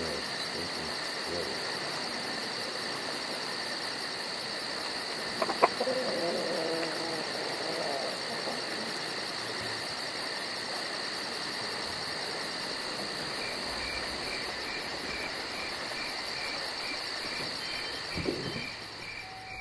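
A chorus of insects trilling steadily, with a fast high pulsing over steady high-pitched tones. A single sharp knock comes about five and a half seconds in.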